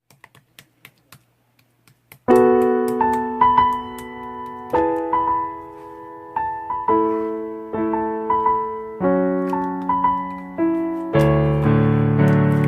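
Piano or electric-piano music with struck, decaying chords, starting suddenly about two seconds in and growing fuller near the end, after a few faint clicks.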